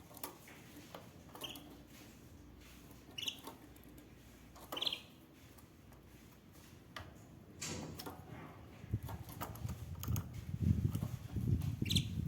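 Canary giving a few short, high chirps spaced a second or two apart, with scattered small clicks. In the second half a low rustling rumble comes in and becomes the loudest sound.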